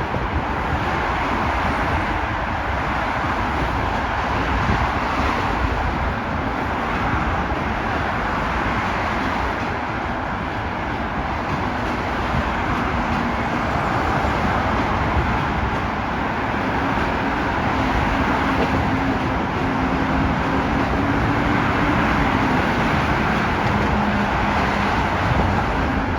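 Steady vehicle rumble, with a faint hum that comes in about halfway, rises slightly, then drops a few seconds before the end.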